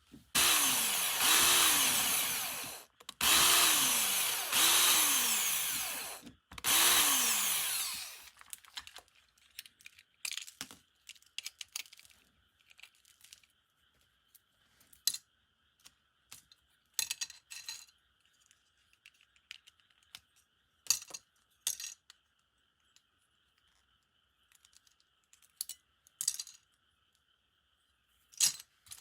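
A small electric drill running in four bursts in the first eight seconds or so, its pitch falling through each run; this is the usual way of drilling out the rivets that hold a Tomica die-cast car's body to its chassis. After that come scattered small clicks and knocks.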